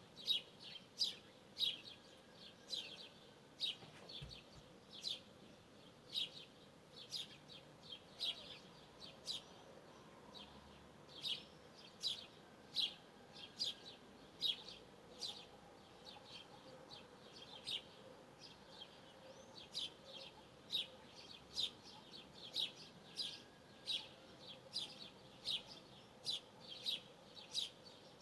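A bird chirping repeatedly in short, sharp, high chirps, roughly one or two a second, keeping up an even rhythm.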